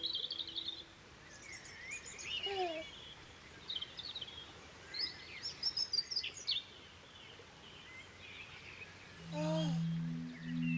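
Birdsong: many short chirps and trills scattered over a quiet outdoor background. Near the end a falling swoop leads into a held low musical note.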